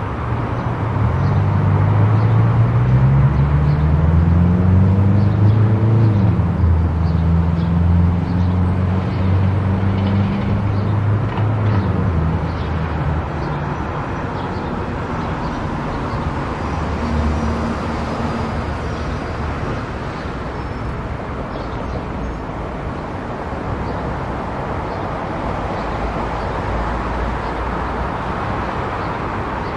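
A car driving on a road, its engine pitch rising as it accelerates over the first few seconds, then holding steady and fading out after about twelve seconds, over steady road and tyre noise.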